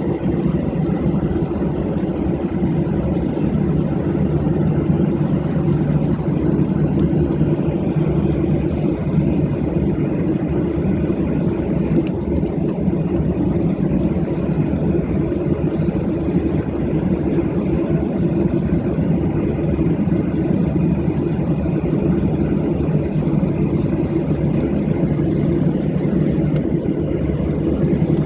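Steady low rumble of an airliner's jet engines and airflow heard inside the passenger cabin, holding level without building up.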